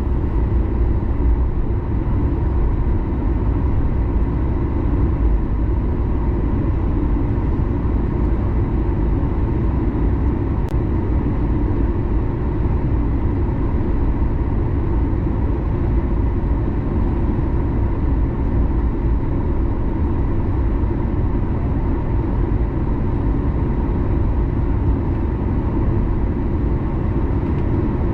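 Steady cabin noise inside a taxiing Boeing 737 MAX 9: the CFM LEAP-1B engines running at taxi power as an even low rumble, with a faint steady tone above it.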